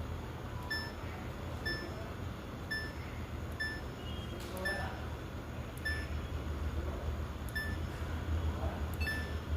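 Washing machine beeping: short, high electronic beeps about once a second over a steady low hum.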